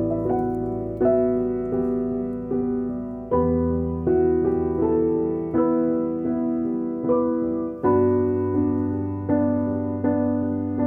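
Background piano music: a slow, gentle line of notes, each struck and fading, over a low bass note that changes twice.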